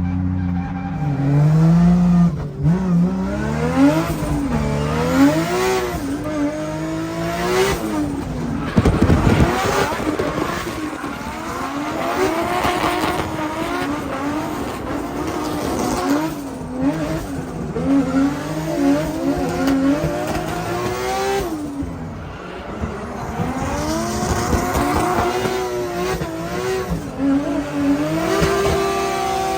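Drift car's engine revving up and dropping back again and again as it slides, with tyres squealing and a loud noisy burst about nine seconds in.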